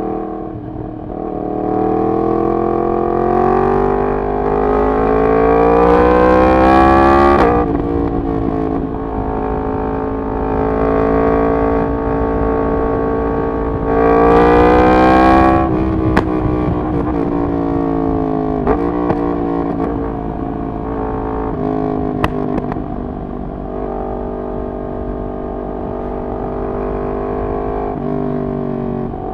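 Yamaha MT-10's crossplane inline-four engine with a de-catted full exhaust system, pulling up through the revs in one long rise and dropping off sharply, then a shorter hard pull and another drop. After that it runs at a steady part throttle, with a few sharp cracks on the overrun.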